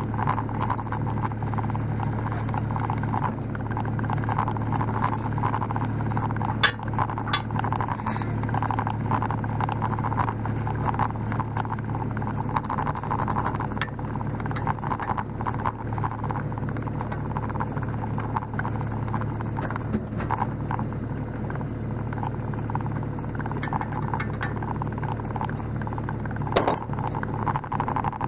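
Mini excavator's diesel engine running steadily while it is operated, with a few sharp knocks about seven to eight seconds in and again near the end.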